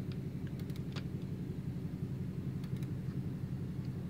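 Seeutek two-stroke bicycle engine running steadily, driving the chain onto the rear sprocket, with a few light clicks as the chain snags on the sprocket teeth instead of seating in the links.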